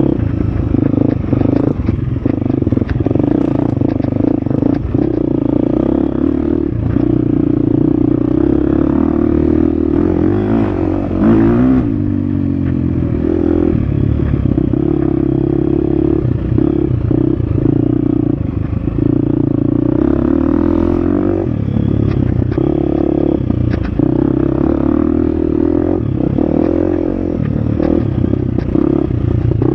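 Husqvarna FX 350 dirt bike's single-cylinder four-stroke engine running on a trail, the throttle constantly on and off, with a brief rise and fall in engine pitch near the middle. Short knocks and rattles come through the whole time.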